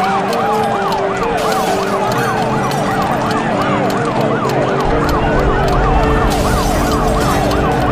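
Several police sirens wailing together, their pitch sweeping quickly up and down over one another, layered over music with held notes. A deep rumble comes in about five seconds in.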